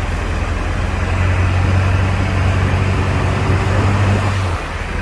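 Monster truck's engine running under load with a steady low drone, heard from aboard the moving truck; the drone drops away briefly near the end before picking up again.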